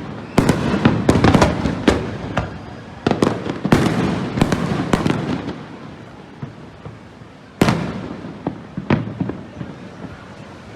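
Fireworks display: a rapid run of aerial shell bangs and crackle for the first half, thinning out, then a single loud bang about three-quarters of the way through and a few lighter pops near the end.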